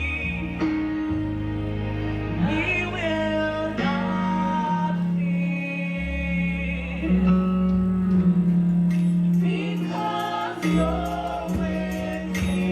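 Live gospel praise and worship music: a group of singers over a band, with sustained bass notes beneath.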